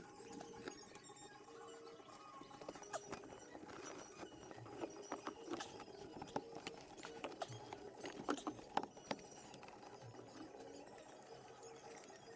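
Faint, scattered clicks and taps with short squeaky chirps, in quick irregular succession, busiest in the middle, like fast-forwarded sounds of hand work.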